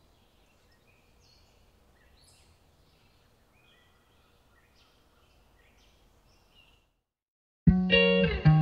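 Faint short bird chirps, one every second or so, over quiet natural ambience, then a moment of silence. Near the end, loud guitar music starts abruptly.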